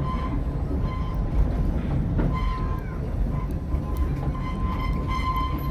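Passenger train of a small steam-hauled park railroad rolling along the track, heard from inside an open-sided coach: a steady low rumble with a thin, steady high whine over it.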